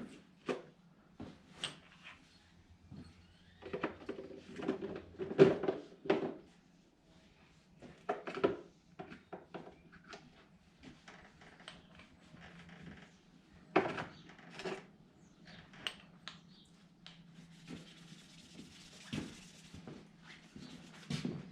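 Hand work on bolts as they are cleaned: irregular scraping and rubbing with light metal clicks and clinks, busiest a few seconds in and again about two-thirds of the way through.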